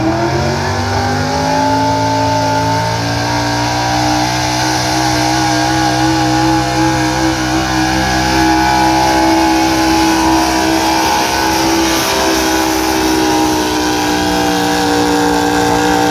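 Gasoline pickup truck engine running hard during a truck pull. Its revs climb over the first couple of seconds, then hold steady at high rpm under load.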